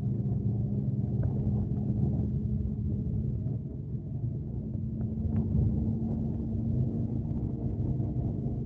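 Scania K370C coach's diesel engine running on the road, a steady low drone. Its pitch settles slightly higher after a brief dip about halfway through.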